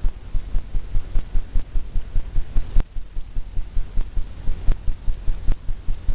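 Palette knife tapping paint onto a stretched canvas: a rapid, even run of soft low thumps, about four to five a second, with a few sharper clicks.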